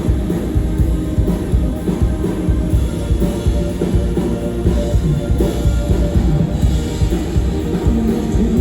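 Loud live rock band music, driven by a drum kit with dense, rapid bass drum and snare hits under sustained instruments.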